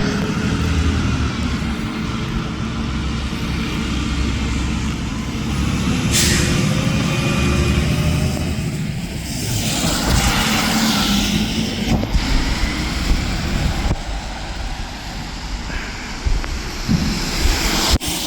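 A Mack McNeilus front-loader garbage truck's engine runs steadily. A short, sharp air-brake hiss comes about six seconds in, and a longer rush of air noise follows around ten seconds in.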